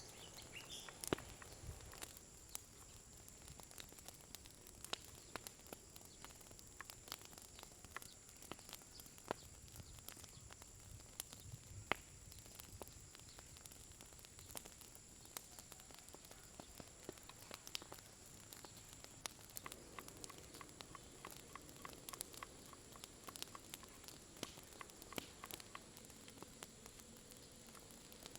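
Campfire crackling faintly, with many small scattered pops and clicks, over a steady high-pitched whine.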